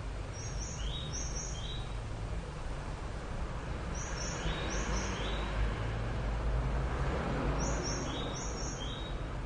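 A bird chirping: groups of four short, high chirps repeating about every three and a half seconds, over a steady low hum and background noise.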